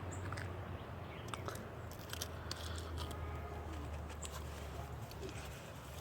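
Outdoor ambience: a steady low rumble, such as distant traffic, under many small scattered clicks and crunches.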